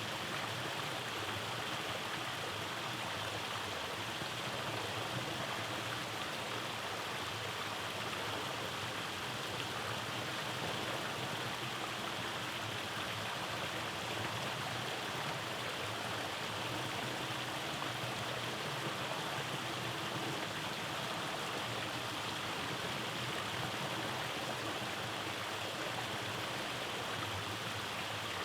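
Rainforest stream running over small cascades: a steady rush of flowing water.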